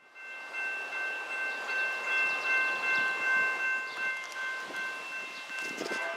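Train running by with several steady high-pitched tones held together over a rushing rail noise.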